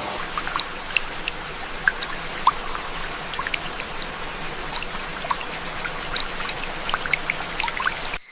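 Steady rainfall, with many separate drops dripping and splashing close by. The sound cuts out briefly at the very end.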